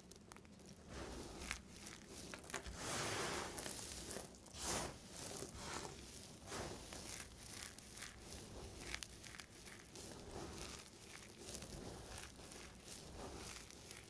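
Knife cutting through soap in a run of short scraping, crumbling strokes, with a longer, louder stretch of cutting about three seconds in.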